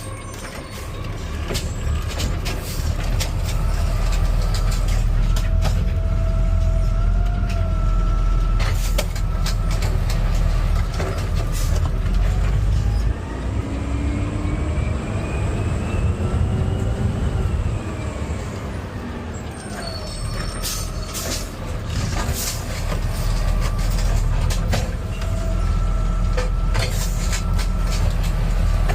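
Cab sound of a Mack LR Electric garbage truck at work: a steady low rumble with frequent rattles and knocks. Around the middle a whine rises in pitch over a few seconds and then falls away.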